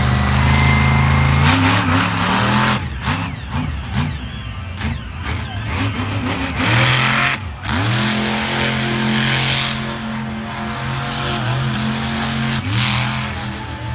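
Monster truck engine running loud and steady, blipped in several quick revs in the middle, then settling back to a steady run with one more short rev near the end.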